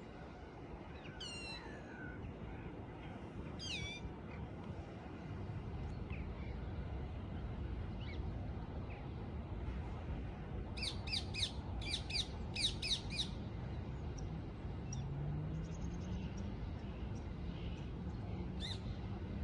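Birds calling: a few single falling calls, then a quick run of sharp, repeated calls a little past halfway and one more near the end, over a steady low background rumble.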